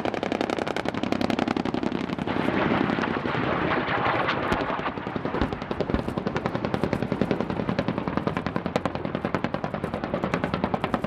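Helicopter-mounted guns firing fast automatic strings, a rapid steady rattle of shots.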